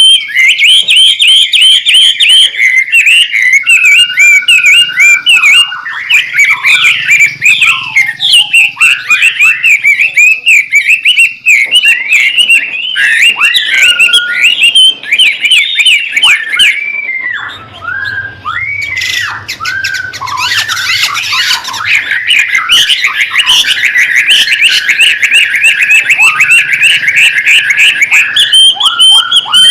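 White-rumped shama (murai batu) singing a loud, busy, nonstop song of rapid varied whistles, chips and sliding notes, with a harsher, scratchy passage about two-thirds of the way through.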